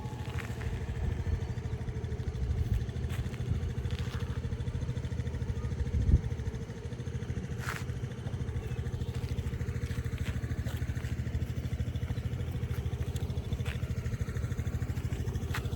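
Motorcycle engine running steadily at an even speed, with a few faint clicks.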